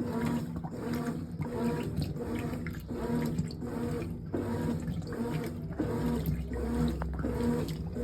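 Brastemp 18 kg top-load washing machine in its wash stage with Turbo agitation: water sloshing in the drum over a motor hum that breaks off and restarts every second or less as the agitator reverses.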